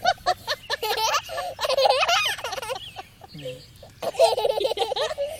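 Young child laughing and giggling in high, wavering squeals, with a short pause about three seconds in.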